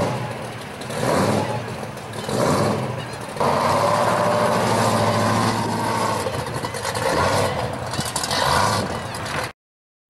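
Supercharged V8 of a blown pro street 1970 Chevrolet Camaro, blipped three times and then held on the throttle as the car pulls out onto the road. The sound cuts off suddenly near the end.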